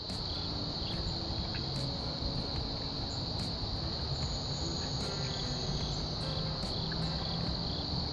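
A singing insect trilling in one steady, unbroken high-pitched tone, over a low rumbling background noise.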